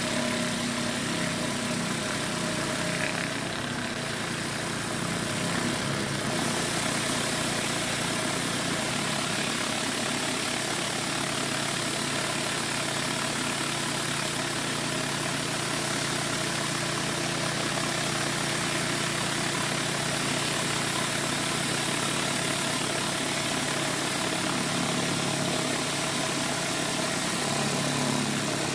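Gas pressure washer engine running steadily under load, with the constant hiss of high-pressure water spraying from a rotating surface cleaner onto a concrete driveway.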